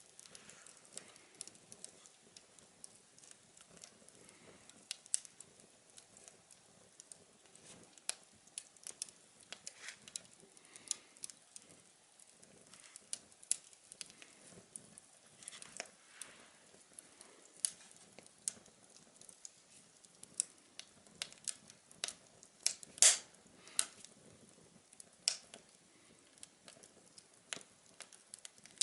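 Small wood fire burning in a tin-can stove, crackling with irregular sharp pops, one clearly louder pop about two-thirds of the way through.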